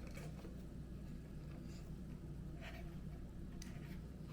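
A few faint clicks and light rattles of small carburetor parts and hoses being handled, over a steady low hum.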